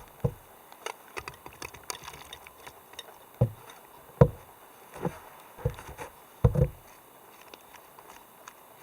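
A series of five soft, low thumps spaced under a second apart, starting about three seconds in, with light clicks and taps before and between them.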